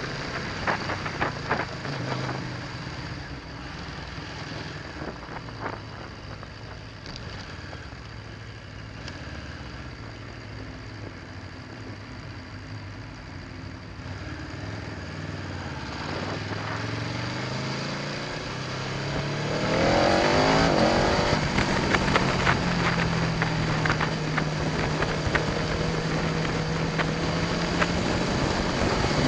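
Aprilia Tuono V4 1100 Factory's V4 engine running at low revs, then about two-thirds of the way in accelerating hard with the revs climbing sharply and getting much louder. It holds a steady high note, then climbs again near the end.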